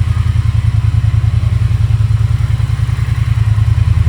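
Triumph T120 1200 cc parallel-twin engine idling steadily after a cold start, with an even, rapid exhaust beat.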